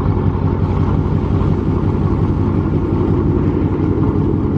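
Car engine idling steadily, a low, even exhaust rumble.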